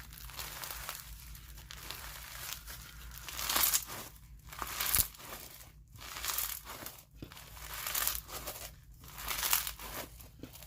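Bingsu bead slime being squeezed and stretched by hand, crunching and crackling in repeated swells about once a second.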